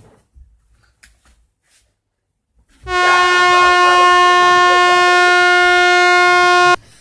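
A loud air-horn blast, one steady unwavering note held for about four seconds, starting about three seconds in and cutting off suddenly.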